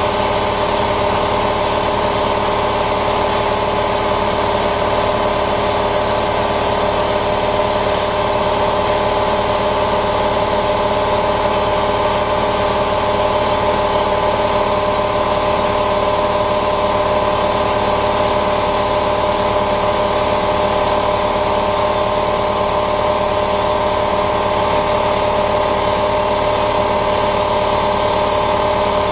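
Paint-spraying equipment running steadily: a continuous hiss of air with an unchanging whine underneath.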